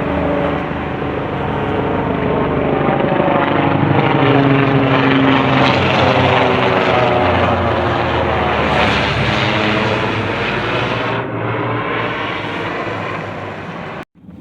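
Low-flying aircraft passing overhead, its engine roar loudest about a third of the way in, with its tone falling in pitch as it goes by. The sound cuts off suddenly near the end.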